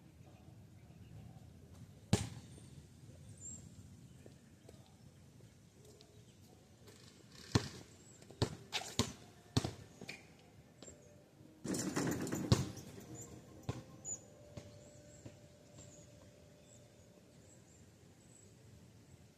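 Basketball thudding on pavement and hoop, a few sharp impacts at irregular gaps, with a cluster of quick hits around the middle and a short louder scuffle just after. Faint high bird chirps.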